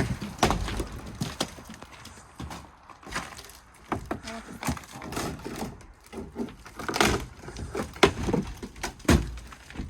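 Irregular knocks and bangs as an old wooden shed is hit apart with a hammer, wood panels and boards taking blows and clattering loose.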